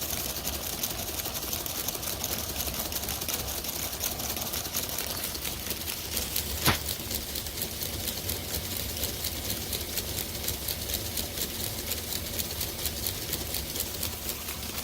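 Small Lego electric motors running steadily, driving the car wash's brushes through plastic gears and shafts with a fast, even clicking. One sharper click sounds a little before halfway.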